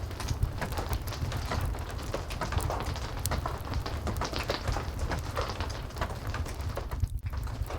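Heavy steady rain: a dense patter of sharp drops over a low rumble, with a brief dip in the sound near the end.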